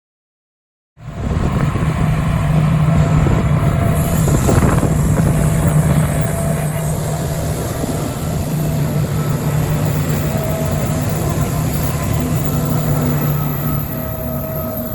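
A train running, heard as a steady low drone over a broad rumble. It starts abruptly about a second in and eases slightly near the end.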